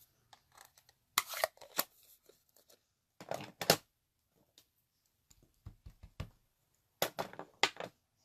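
Sharp clicks and taps of a rubber stamp being inked on a pad and pressed onto card stock, in small clusters, with a few duller thumps on the desk around six seconds in.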